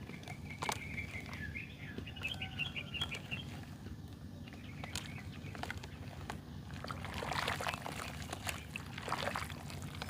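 Clumps of mud being crumbled by hand: scattered crackles and crunches, thickening into a dense run of crumbling about seven seconds in, over a steady low hum. A bird chirps in the first few seconds.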